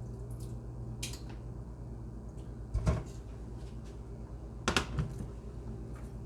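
Cookware knocking twice, about two seconds apart, the second a quick double knock, as meat is transferred into a pot of sauce. A steady low hum runs underneath.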